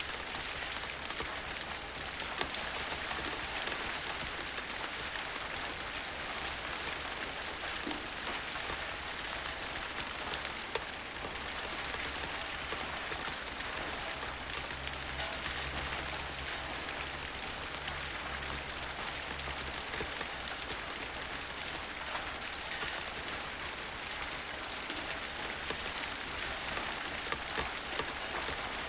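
Steady rain falling on a surface, a dense even hiss with many individual drops ticking through it. Around the middle a low rumble swells for several seconds, like distant thunder.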